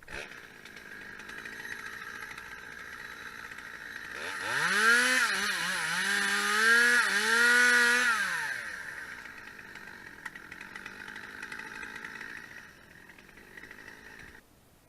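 Chainsaw running at low speed, then revved up about four seconds in. Its pitch wavers and dips for about four seconds before it drops back to a low run, and the sound cuts off abruptly near the end.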